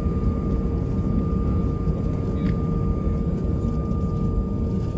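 Airbus A320 cabin noise: the jet engines running at steady power, a low rumble with a constant hum held through it.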